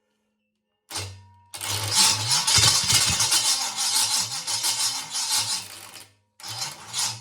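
Freshly built 6-inch-rod 350 Chevy small-block V8 cranked on the starter, catching about a second and a half in and running loud and uneven for about four and a half seconds before dying out, then cranked and fired again near the end. It keeps stalling because it won't idle yet: it is fed only from fuel bowls with no proper fuel system and still needs tuning.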